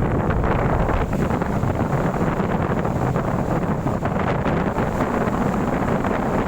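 Strong windstorm wind blowing steadily and buffeting the microphone with a low, rumbling noise.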